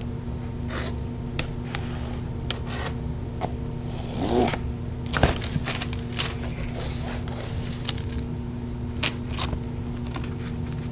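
A shipping package being opened by hand: irregular scraping, rubbing and clicking of cardboard and tape, with a sharper knock about five seconds in, over a steady low hum.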